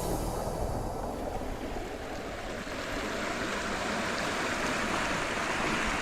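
Sea water washing and rushing over shore rocks in a steady wash of noise, swelling a little in the second half.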